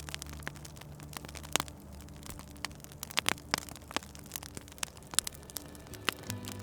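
Wood fire crackling, with irregular sharp pops and snaps over a soft hiss. Low steady tones sound underneath.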